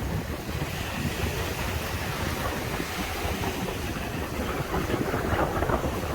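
Waves breaking and washing on a sandy beach, with wind buffeting the microphone. The surf swells louder about five seconds in.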